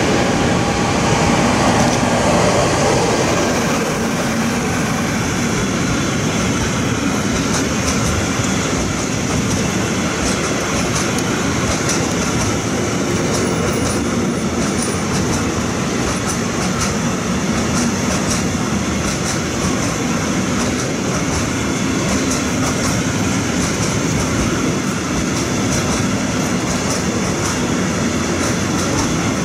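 Electric freight train passing close by, loudest in the first few seconds as the locomotive approaches, then a long string of freight wagons running past with a steady stream of wheel clicks over the rail joints.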